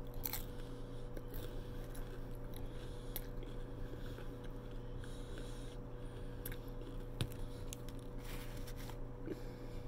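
Close-up chewing of fried lumpia (Filipino spring rolls), with scattered small clicks and wet mouth sounds. A steady low hum sits underneath.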